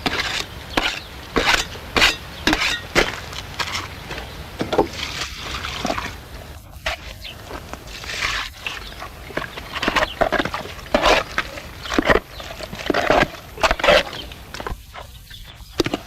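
A series of irregular knocks and thuds, about one or two a second, from hand work with tools and materials.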